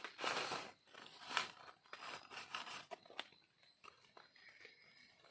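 Dry leaf litter rustling and crunching in irregular bursts, with scattered sharp snaps, loudest in the first second and a half and fading after.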